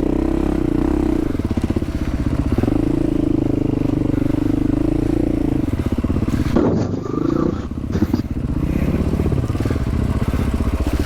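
Dual-sport motorcycle engine running at low trail speed, the throttle eased off and opened again a couple of times. A few short knocks come in the second half.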